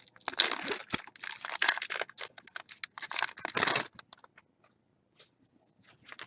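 Rustling and scraping of trading cards and pack wrappers being handled, in bursts over the first four seconds, then only a few faint ticks.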